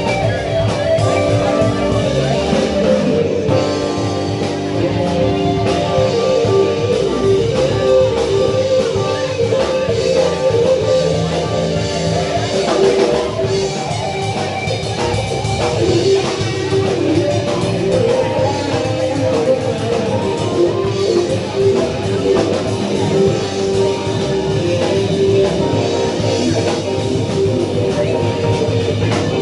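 Rock band playing: electric guitar lines over bass and drums, steady and loud.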